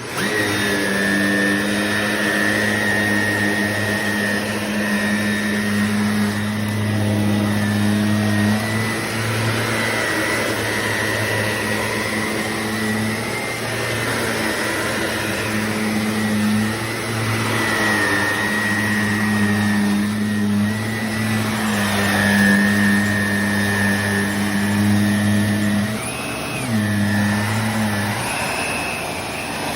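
Shark NV352 Navigator upright vacuum cleaner switching on and running, a steady motor hum with a high whine on top. The pitch dips briefly twice near the end.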